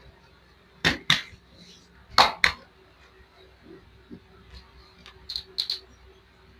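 Sharp slaps of hands on skin during a foot and leg massage: two quick pairs of slaps about a second apart, then three lighter ones near the end.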